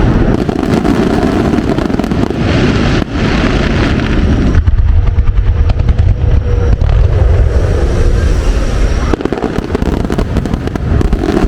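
Fireworks display: aerial shells bursting in a dense run of low, rolling bangs with crackling, thinning for a few seconds in the middle.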